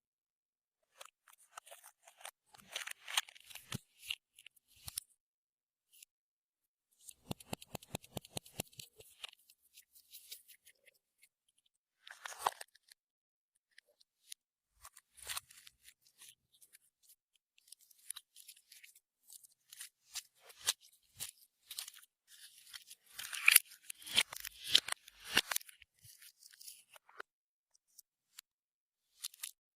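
Clear slime being worked by hand, giving sticky clicks and small crackling pops in irregular bursts with short pauses between them, and one quick run of evenly spaced clicks partway through.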